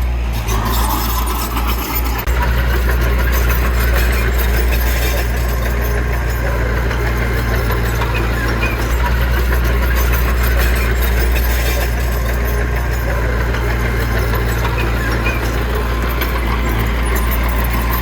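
Heavy earthmoving machine's diesel engine running steadily, a deep continuous drone.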